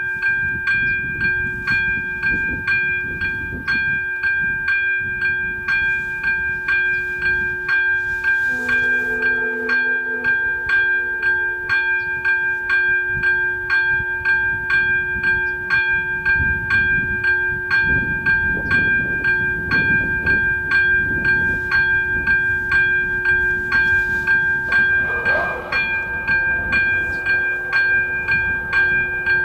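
Czech level-crossing warning bell (AŽD electronic crossing bell) ringing steadily at about two strokes a second after the crossing activates for an approaching train. A short low horn-like tone sounds briefly about nine seconds in, and there is a low rumble underneath.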